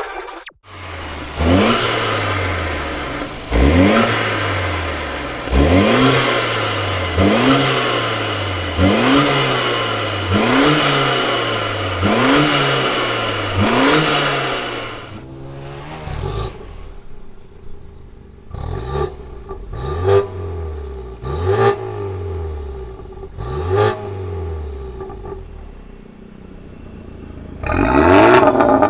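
BMW F30 320i with an ARMYTRIX aftermarket exhaust line and silencer, the engine revved again and again: each rev climbs sharply and falls back, about one every second and a half. The revs drop to a quieter level about halfway through and get loud again near the end.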